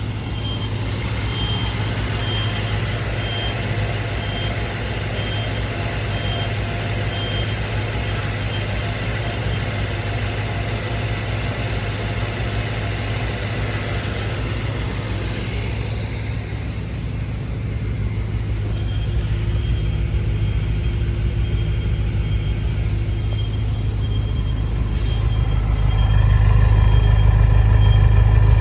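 2015 BMW M5's 4.4 L twin-turbo V8 idling steadily, running louder and deeper near the end. A repeated high beep sounds over it for roughly the first half.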